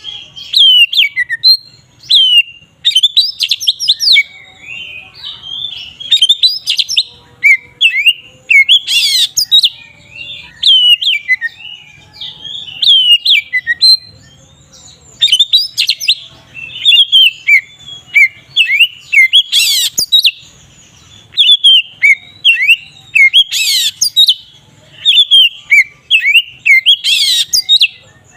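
Oriental magpie-robin (kacer) singing a loud, unbroken full song ('ngeplong'): quick whistled notes sliding up and down, with a harsh scratchy note every three to four seconds. This is the kind of song used to stir rival male magpie-robins into answering.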